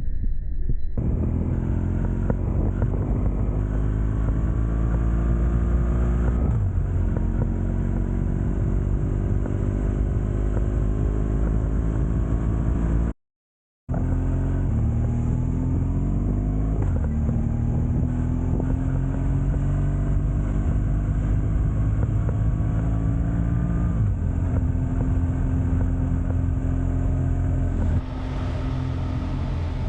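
Motorcycle engine pulling hard while riding, its pitch climbing and then dropping back at each gear change, over road and wind noise. The sound cuts out completely for about a second near the middle.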